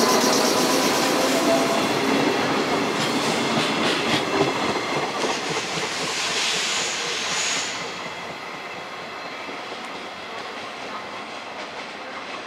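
Four-car 105 series electric train departing, its wheels clicking rhythmically over the rail joints as the cars pass. A brief high squeal comes about six seconds in, then the sound drops and fades as the train moves away.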